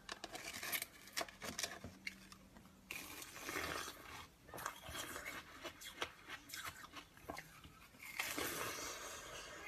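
A person biting and chewing ice, with a rapid run of sharp, irregular crunches and cracks that comes in denser spells about three seconds in and again near the end.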